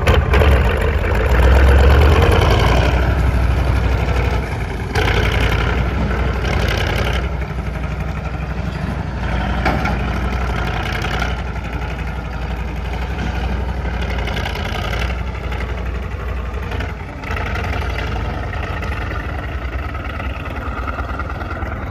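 KV-1 tank's V12 diesel engine running, a heavy low rumble that is loudest in the first few seconds and then holds steady with small rises and falls.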